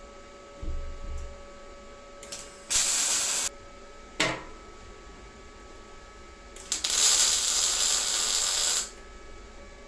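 Two bursts of hiss that start and stop sharply, the first about a second long and the second about two seconds long, with a low thump before them and a sharp click between.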